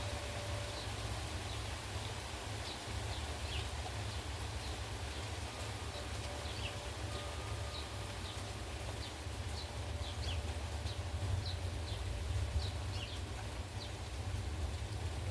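Steady hiss of heavy rain, with gusty wind buffeting the microphone in a low, unsteady rumble. Short high chirps or ticks come scattered throughout.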